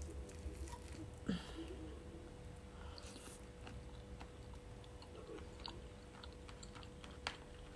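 Faint chewing and small wet mouth clicks from eating a forkful of octopus and salad leaves.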